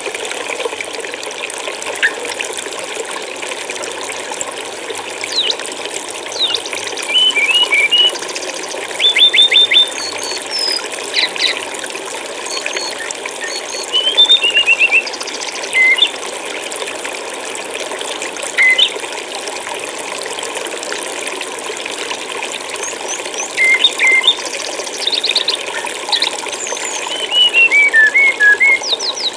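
Steady rushing of flowing stream water, overlaid with small songbirds chirping: short high chirps and quick descending runs of notes every couple of seconds.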